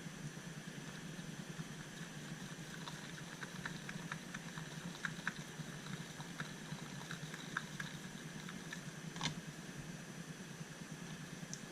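Faint, irregular light clicks and taps of a mixing stick working a small batch of epoxy, over a steady low hum. One sharper click comes about nine seconds in.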